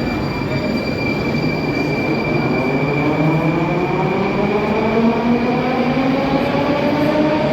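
Moscow Metro train pulling out of the station, its motor whine rising steadily in pitch as it gathers speed, over rumbling running noise and a steady high squeal.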